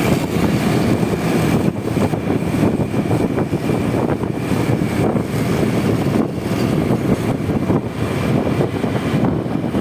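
Riding noise on a moving Honda Vario 125 scooter: wind buffeting the microphone over the single-cylinder engine and road noise, steady and rumbling throughout.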